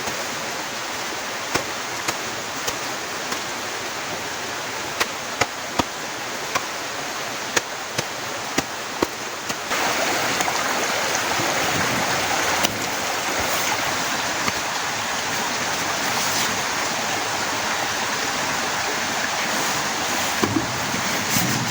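Heavy rain falling steadily, with sharp taps of single drops landing close by. The rain grows louder about ten seconds in.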